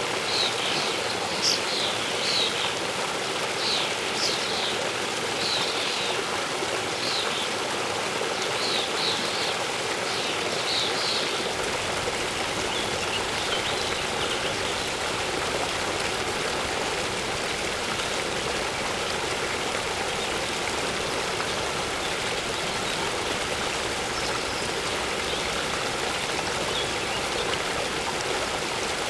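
Waterfall water rushing steadily, with small birds chirping in short, repeated calls during the first third and only a few faint chirps after that.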